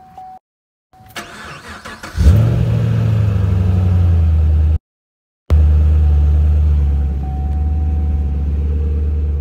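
Chevrolet Camaro engine cranked by the starter, catching about two seconds in with a loud flare of revs, then settling into a steady idle, heard from the driver's seat. The sound drops out to silence twice for a moment.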